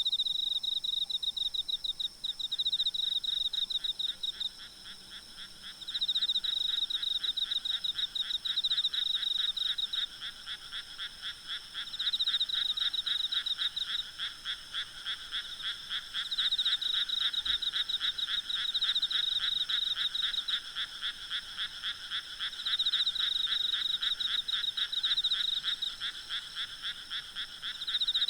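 A night chorus of frogs calling in rapid pulsed trills, in bouts of several seconds with short pauses between them, over a steady high insect drone.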